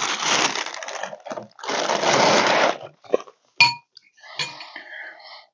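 Dry cereal flakes rustling and shifting inside the box's plastic liner in two bursts of about a second each, then a spoon clinks once against a bowl, followed by softer rustling.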